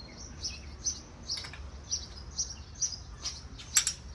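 A small bird chirping over and over, short high chirps about twice a second, with a few sharp clicks; the loudest click comes near the end.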